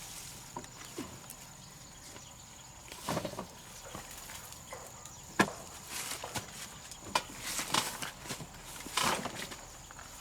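Irregular light knocks, clicks and short scrapes, with one sharp click about five seconds in and a busier run of them near the end.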